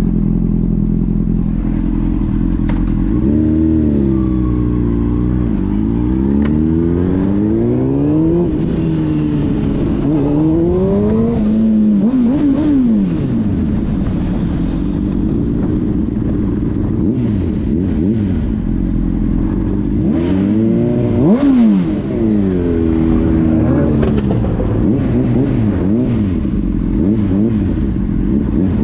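Car engines idling and being revved repeatedly, the engine note rising and falling again and again in two spells, about 3 to 14 seconds in and about 19 to 25 seconds in, loudest a little past the middle.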